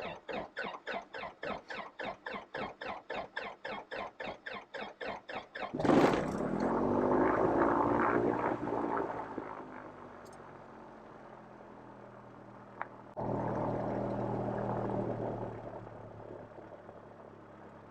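Mooney M20J's four-cylinder Lycoming IO-360 being cranked by its starter, chugging about five times a second, then catching about six seconds in with a loud burst. It runs high, settles to a lower idle, then rises again for a few seconds near the end before easing back.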